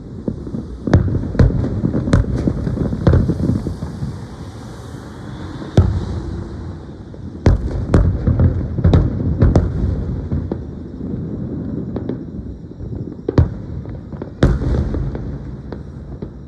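Aerial fireworks shells bursting in irregular quick succession: about a dozen sharp bangs over a continuous low rumble, with a hissing crackle about four to five seconds in.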